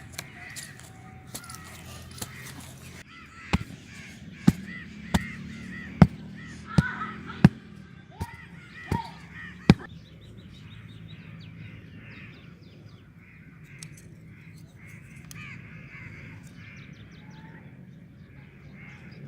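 Crows cawing over and over, several calls overlapping. Between about three and a half and ten seconds in, a run of about nine sharp clicks or knocks, a little under a second apart, stands out as the loudest sound.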